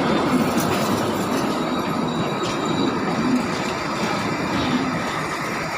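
Train running on rails, a steady rumble of wheels on track with faint rhythmic knocks and brief clicks, easing off slightly toward the end.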